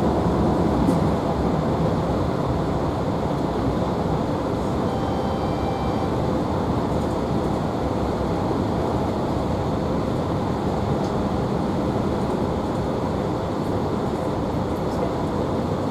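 Steady running noise heard inside a carriage of a GWR Class 165 diesel multiple unit on the move: the underfloor diesel engine and the wheels on the rails give an even rumble.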